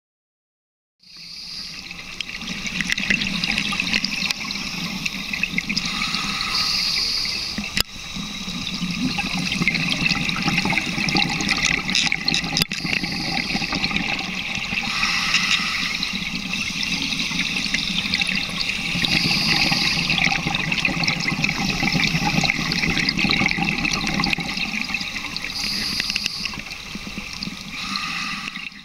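Underwater recording: a scuba diver's exhaled bubbles and water rushing past the camera housing, swelling every few seconds, with two sharp clicks.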